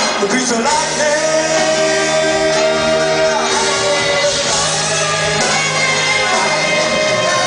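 Live rock and roll song sung with a band, the singers holding one note for a couple of seconds about a second in.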